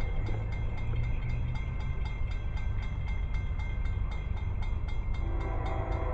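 Approaching train: a steady low rumble, with the train's horn starting to sound about five seconds in.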